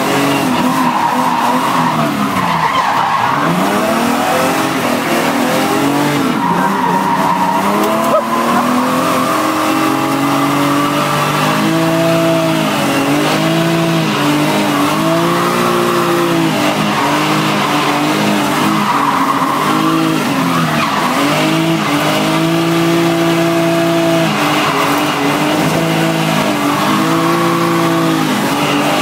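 Drift car's engine heard from inside the cabin, revving up and falling back again and again as the car slides through corners, with tyres squealing. A single short knock about eight seconds in.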